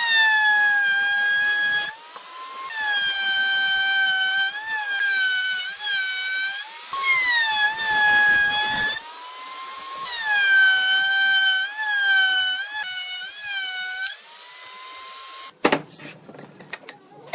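A high-speed electric power tool whining in repeated runs of a few seconds. Its pitch sags and wavers as it bites into the wood. Near the end the whine dies away, and a sharp knock and a few small clicks follow.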